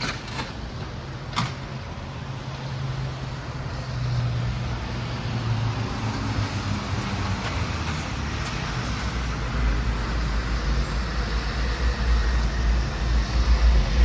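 Steady low mechanical rumble, growing louder and deeper over the second half, with a couple of sharp clicks near the start.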